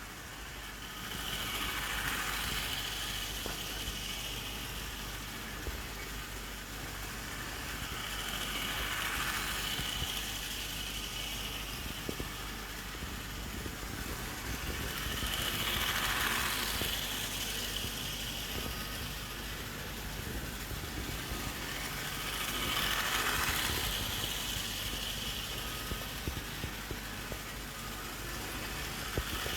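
OO gauge model locomotive running round a loop of track: a steady whir from its small electric motor and its wheels on the rails, swelling each time it passes close, about every seven seconds.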